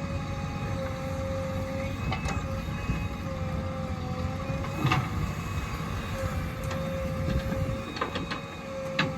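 Heavy diesel machinery running with a steady drone and a high held whine, with sharp metallic knocks about 2, 5, 8 and 9 seconds in.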